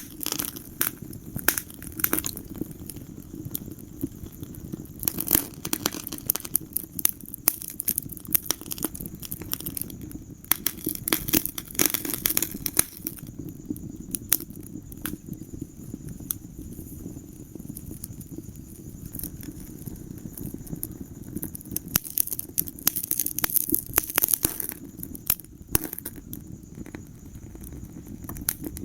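Wood fire crackling in a fireplace: frequent sharp pops and snaps over a steady low rumble of burning, with denser runs of crackling about five, eleven and twenty-three seconds in.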